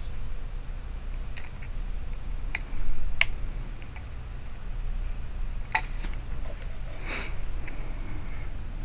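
Small metal lock-cylinder parts clicking and tapping as they are handled and fitted together, a handful of sharp separate clicks, with a short rustling burst near the end over a steady low hum.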